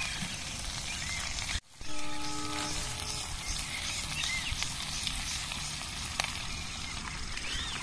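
Potatoes frying in oil in an iron karahi over a wood fire, sizzling steadily. The sound drops out for an instant about one and a half seconds in, and a short steady pitched tone sounds briefly just after.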